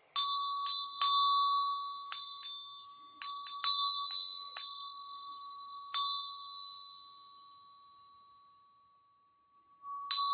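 Small hand bell rung with a run of about ten irregular clapper strikes, each leaving a clear high ring; after the last stroke the ringing fades away over a few seconds, and the ringing starts again near the end.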